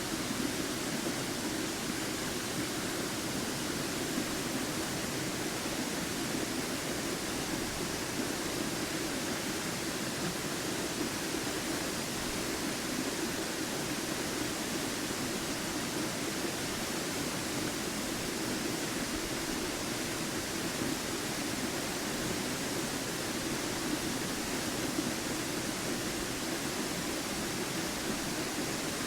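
Waterfall pouring steadily, a constant full rush of falling water with no breaks.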